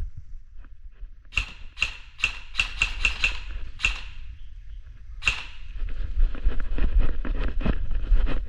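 Airsoft guns firing: a run of about eight sharp shots over two and a half seconds, then one more shot a little later. In the last few seconds there is a low rumble with many small knocks.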